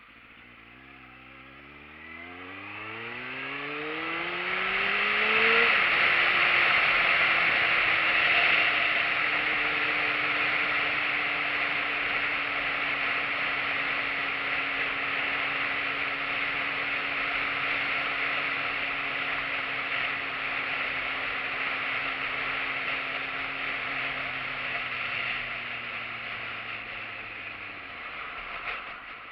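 Motorcycle engine revving up as it accelerates over the first five or six seconds, then holding a steady note while cruising, under a loud hiss of wind and road noise. Near the end the engine note drops away as it slows.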